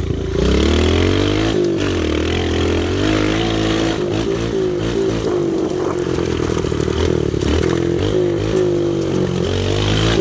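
Pit bike engine being ridden hard, its revs rising and falling with the throttle, with several brief drops in revs along the way.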